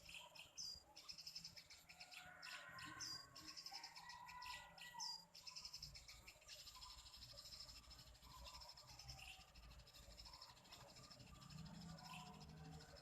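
Faint bird chirps: several short, high chirps in the first half over a quiet outdoor background.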